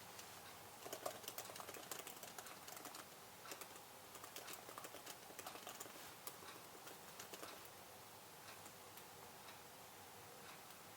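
Quiet typing on a computer keyboard: a quick run of key clicks starting about a second in, thinning out after about seven seconds to a few faint taps.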